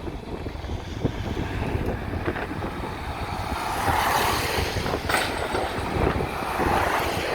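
Outdoor roadside noise: wind rumbling on the microphone, with road traffic swelling as a vehicle passes in the second half, and a sharp click about five seconds in.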